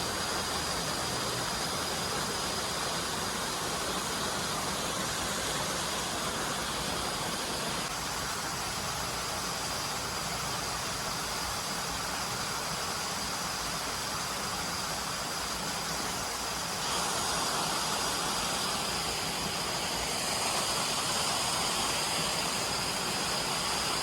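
Steady rush of flowing stream water with a thin, high, steady tone above it, a little louder from about two-thirds of the way in.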